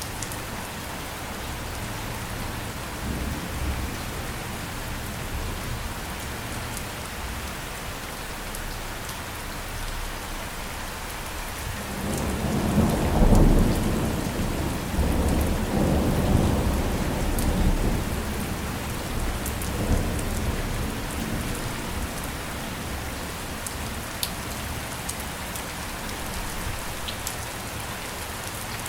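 Steady rain falling, with sharp drop ticks, and a long roll of thunder partway through, loudest at its start and rumbling off over several seconds.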